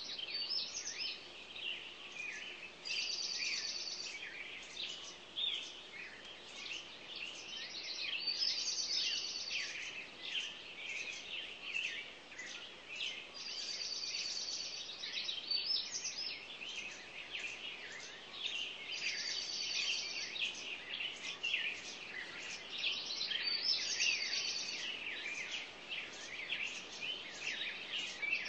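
Many small cage birds chirping and calling at once, with one short trilling song coming back about every five seconds.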